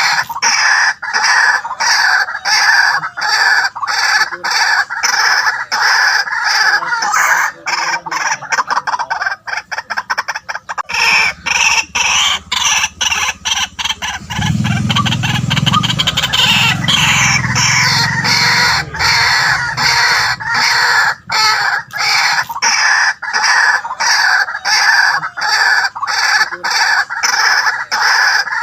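White-breasted waterhen calling loudly in a long, rapid run of repeated croaking notes, about three a second, the kind of call played to lure waterhens. A low rumble sits under the calls from about eleven to twenty seconds in.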